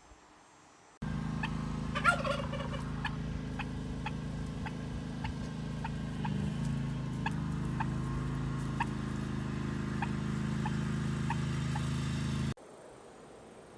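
A loud falling poultry call about two seconds in, over a steady low hum and short chirps repeating about every half second. The sound starts and stops abruptly.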